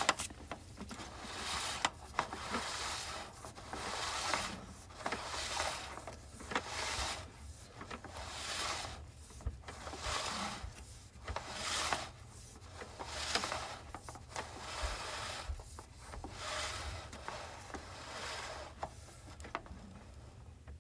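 Sewer camera push cable being fed by hand into a drain cleanout, rubbing and scraping in repeated strokes about every one and a half to two seconds.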